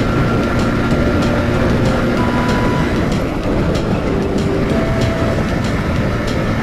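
Steady rush of wind and road noise from a motorcycle moving at highway speed, with the Bajaj Pulsar 150's single-cylinder engine running underneath.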